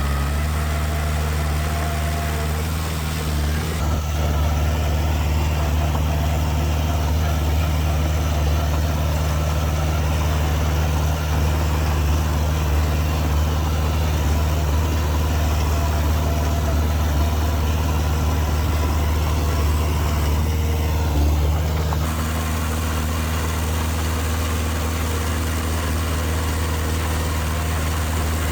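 Heavy diesel engine of earthmoving machinery running steadily with a low, even hum, its sound shifting slightly about four seconds in and again about three-quarters of the way through.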